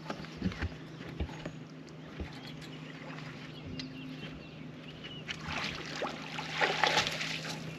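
A hooked fish splashing and thrashing at the water's surface beside a fishing boat as it is landed, loudest from about five to seven and a half seconds in. Scattered knocks on the boat and a steady low hum run underneath.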